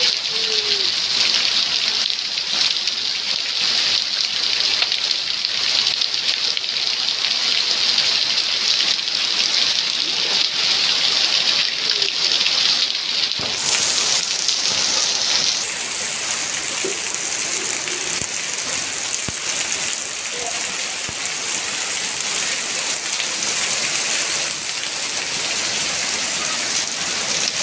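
Steady rain falling and hitting surfaces, a dense even hiss whose tone shifts about halfway through.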